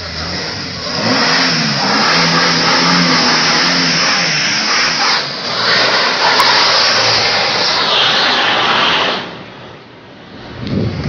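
Police SUV's engine revving hard as it accelerates away, loud from about a second in, with its pitch climbing and falling through the gears. It drops off near nine seconds, and another engine revs up just at the end.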